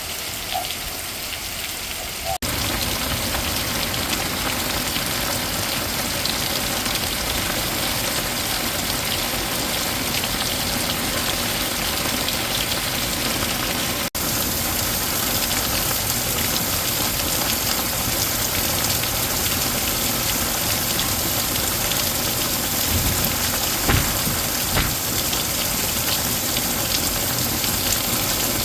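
Heavy rain pouring down in a steady hiss, stepping up a little louder about two seconds in, with a few brief low bumps near the end.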